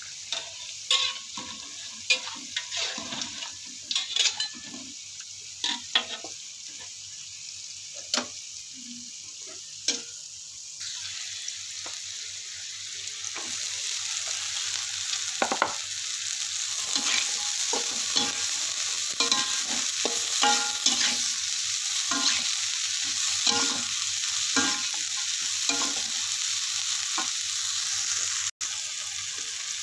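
Oil sizzling in a metal wok while a metal spatula scrapes and turns the food, first with pieces of tempeh frying. About a third of the way in the sizzle grows louder and fuller as bawang rambut bulbs and leaves are stir-fried, with scraping strokes continuing.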